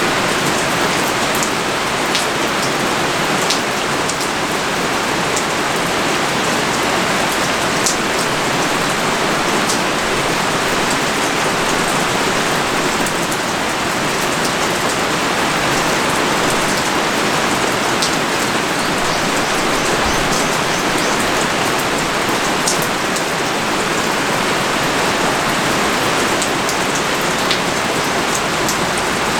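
Pouring rain falling steadily, an even hiss with scattered sharper taps of individual drops.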